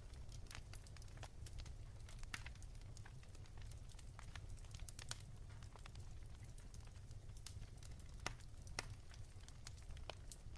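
Firewood crackling softly in a fireplace: irregular small snaps and pops over a low steady hum, with two louder pops about eight seconds in.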